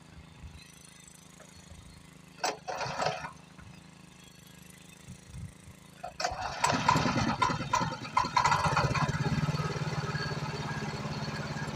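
Tractor engine starting about six seconds in, running rough and loud at first, then settling into a steady idle. A short noisy burst comes a few seconds before it.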